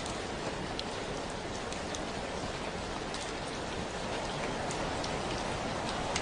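Steady rain, an even hiss with scattered individual drops ticking through it.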